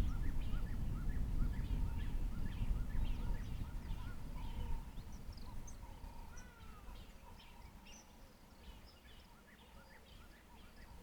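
Wild birds calling: many short, high chirps, one series repeating about three times a second, over a low rumble that fades out about halfway through.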